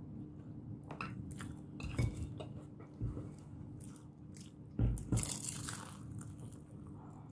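A person biting into a crispy fried vegetable spring roll and chewing it, with sharp crunches of the wrapper, the loudest about five seconds in. A steady low hum runs underneath.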